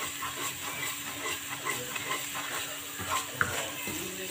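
Onion and curry-powder paste sizzling in oil in a stainless steel wok, frying until browned, while a wooden spoon stirs and scrapes it in quick repeated strokes. About three and a half seconds in there is one sharper knock.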